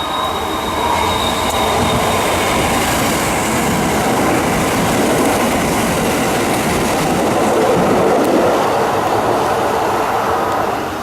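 Kintetsu electric train running along the platform, a loud steady rumble and rattle of wheels on rail that builds over the first couple of seconds and then holds.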